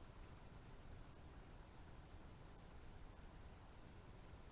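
A faint, steady, high-pitched chorus of insects, crickets or similar, with no break.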